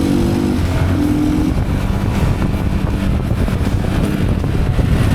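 Yamaha WR155R's 155cc single-cylinder engine running under way, its pitch rising briefly in the first second or so before settling into a steady drone, with wind and road noise.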